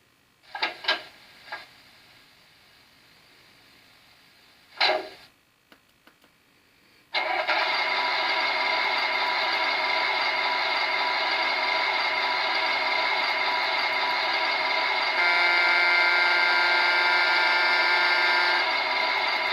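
Sound module in a Kyosho Blizzard SR RC snowcat playing a simulated engine through its small speaker: a few short bursts in the first five seconds, then a steady engine-running sound starts about seven seconds in. For about three seconds near the end a second set of steady tones sounds on top of it.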